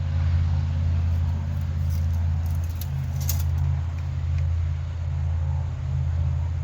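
A steady low engine drone, with a few faint light clicks around the middle.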